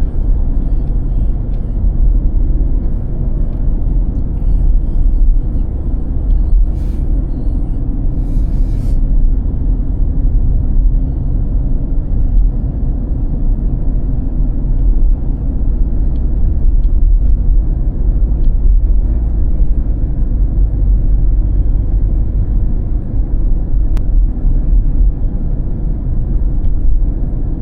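A car driving on a snowy road: a steady low rumble of engine and tyres, with two brief hisses about seven and eight and a half seconds in.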